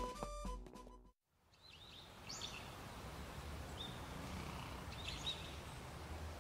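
A bit of light background music cuts off about a second in. After a short silence comes a steady outdoor ambience with small birds chirping a few times.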